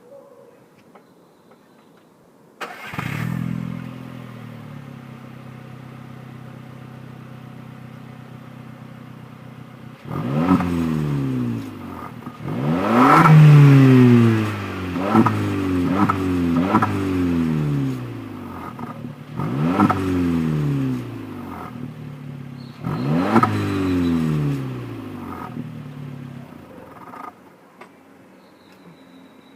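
SEAT Ibiza 1.2 TSI four-cylinder turbo petrol engine breathing through a Miller aftermarket exhaust. It starts about three seconds in with a brief flare and settles to a steady idle. From about ten seconds in it is revved in about eight blips, rising and falling, the loudest about thirteen seconds in, and the engine note stops about 27 seconds in.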